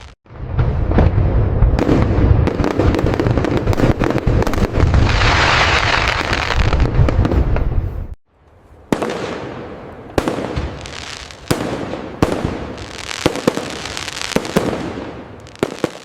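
Fireworks display: a dense run of deep booms with crackling through the middle, which cuts off abruptly about halfway through. After that comes a lighter stretch of sharp pops and cracks over a hissing crackle.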